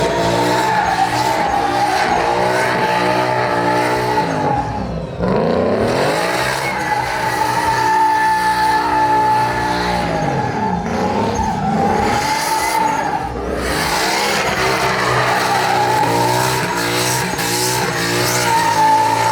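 Truck doing a burnout: tyres screeching with a steady high squeal over the engine running hard. The revs dip and climb back about five seconds in, and again around ten to thirteen seconds.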